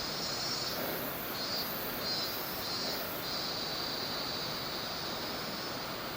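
Steady rush of a mountain stream, with a high buzzing that starts and stops several times over it.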